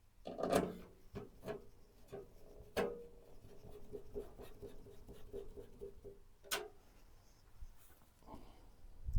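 Hardware being handled and fitted into a steel PC case: clicks and knocks, then a run of quick light ticks over a faint metallic ring, a sharp click and a low thump near the end.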